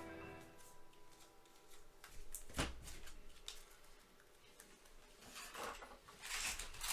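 Faint handling of baseball cards and packs: scattered light clicks, taps and shuffles. Near the end a foil pack wrapper starts to crinkle as a pack is torn open.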